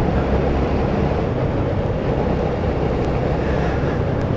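Motorcycle running steadily at road speed: a continuous low drone of engine and road noise.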